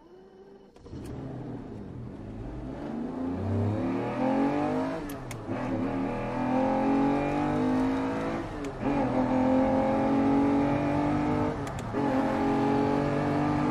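A car engine accelerating hard through the gears, its pitch climbing and then dropping back at each of three upshifts as it grows louder. It is a recorded effect opening the added soundtrack, not a sound from the engineless cable car.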